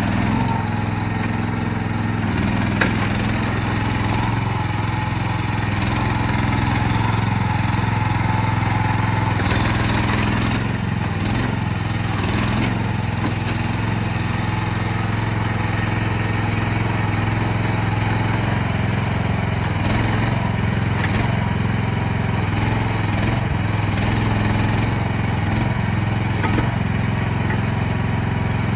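CFG MH12RX mini excavator's engine running steadily at a constant speed, with a brief click a little under three seconds in.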